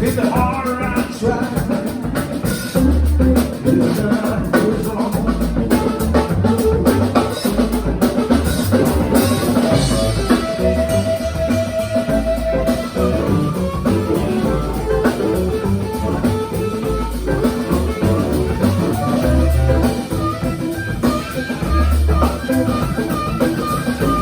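Live blues band playing an instrumental passage: guitar over a drum kit, with one note held for a couple of seconds about halfway through.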